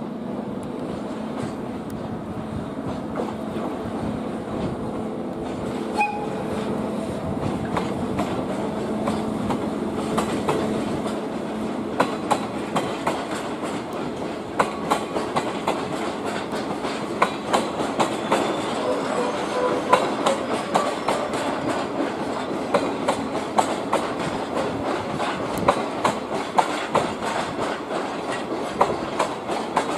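A slow freight train of Hoki 10000 hopper wagons rolling through a freight yard behind an HD300 hybrid shunting locomotive. The locomotive's steady hum fades over the first dozen seconds, and from about twelve seconds in the wagon wheels clack sharply and repeatedly over rail joints and points.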